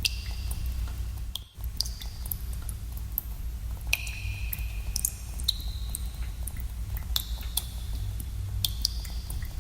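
Water drops falling irregularly into pools in a cave, each a sharp plink, several ringing on with a short clear tone, over a steady low rumble; the sound briefly cuts out about a second and a half in.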